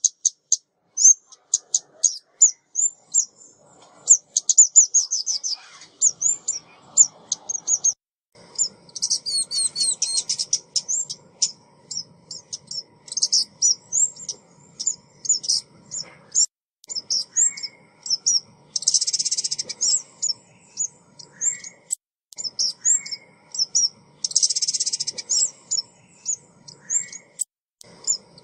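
Female ốc mít bird calling, a recording of the kind played as a trapping lure: a rapid, continuous series of short, high chirps, broken twice by dense buzzy trills about two-thirds and five-sixths of the way through.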